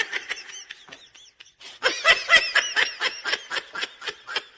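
A person laughing in a quick run of short, repeated bursts, which dies down about a second in and picks up louder again about two seconds in before tapering off.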